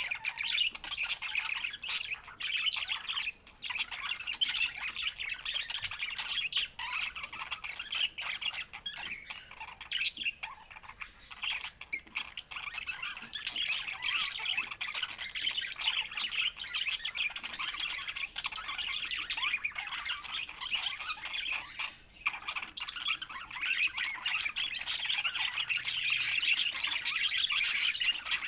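Budgerigars chattering and squawking without a break: a dense, unceasing stream of quick chirps, warbles and clicks.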